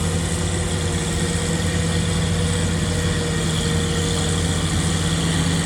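Tractor engine idling steadily, a low even hum with no revving.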